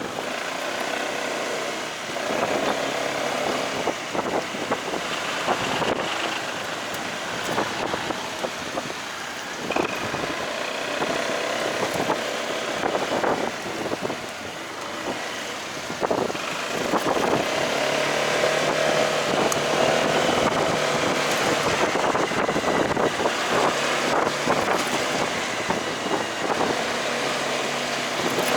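Delivery motorcycle engine running while riding, with wind on the microphone and scattered knocks. It grows louder about two-thirds of the way through.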